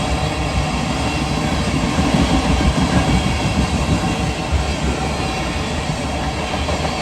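Freight train cars rolling past close by: the steady, loud noise of steel wheels running over the rails.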